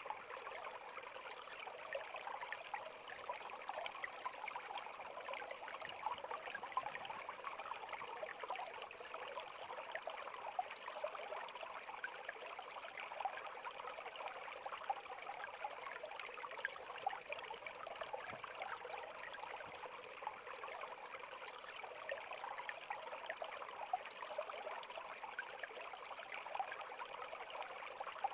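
River water flowing steadily over rocks, an even rushing with fine bubbling and splashing.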